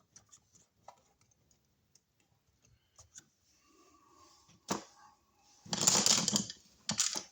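Scattered faint clicks, then a sharp click just before the five-second mark and a loud burst of rustling and scraping about six seconds in: handling noise from hands and tools at work.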